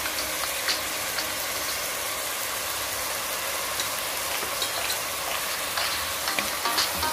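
Pieces of meat and spices frying in oil in a pot: a steady sizzle with scattered sharp pops and crackles.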